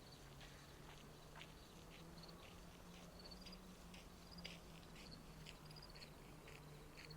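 Faint chirping of insects, likely crickets: many short, high, pulsed chirps at an uneven pace. A faint steady low hum sits underneath.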